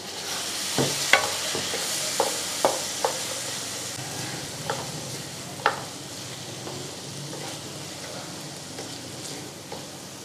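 Boiled chickpeas sizzling in hot oil and masala while a wooden spoon stirs them in a metal pot, the spoon knocking against the pot about seven times in the first six seconds. The sizzle is loudest in the first four seconds, then quieter.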